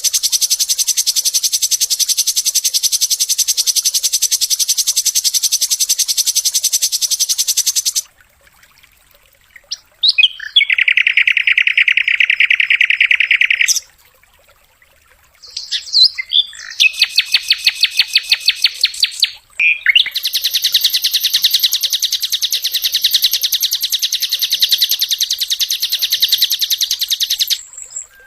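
Sikatan londo flycatcher singing rapid, high trills in long phrases. A long trill is followed by a short pause, a lower buzzy trill, another pause, a short rattling run of separate notes, and a final long trill that stops shortly before the end.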